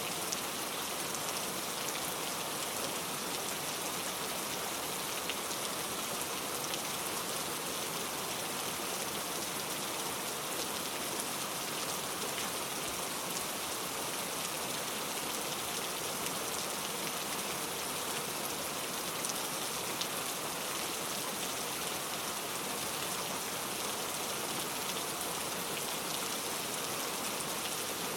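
Steady heavy rain falling, without thunder: an even hiss of rain with many fine drop patters on a surface.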